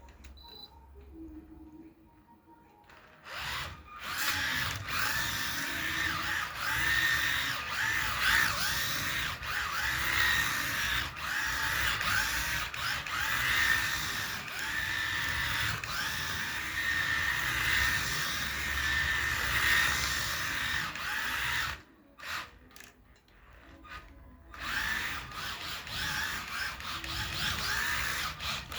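Small electric motor and drivetrain of a Mini-Z RC car whining, its pitch rising and falling again and again as it speeds up and slows. It stops for a couple of seconds after about twenty-two seconds, then starts again.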